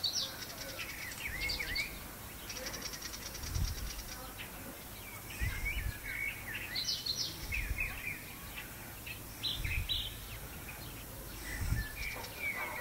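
Wild birds chirping and calling, with quick trills and short sliding notes. A few brief low rumbles come and go beneath them.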